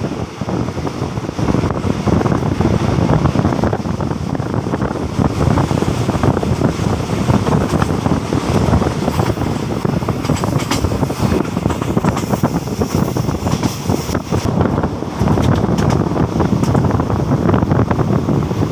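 Express passenger train running along the line, a steady rumble of wheels and carriage mixed with wind rushing past an open carriage window onto the microphone.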